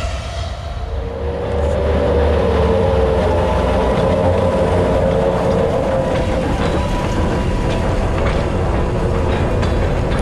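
A small diesel switcher locomotive passing at close range, its engine running with a steady low rumble, followed by covered hopper cars rolling by with their wheels clicking over rail joints from about the middle on.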